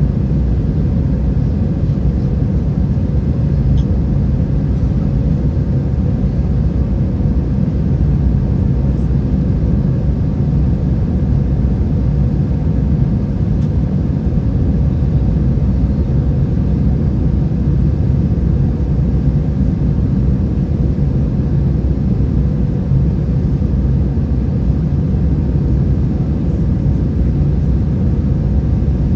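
Steady low rumble of an Airbus A320 heard from inside the passenger cabin, its IAE V2533-A5 engines and airframe running evenly with a faint steady hum over the rumble.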